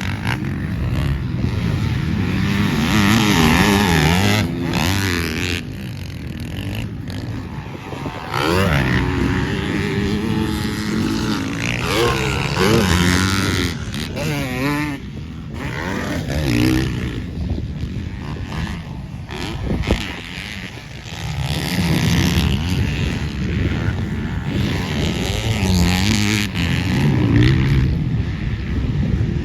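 Motocross dirt bikes on the track, their engines revving up and down over and over as they accelerate, shift and back off, with more than one bike heard at times.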